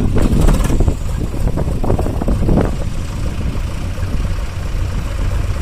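Heavy diesel engine of a tractor or backhoe loader running steadily with a low rumble.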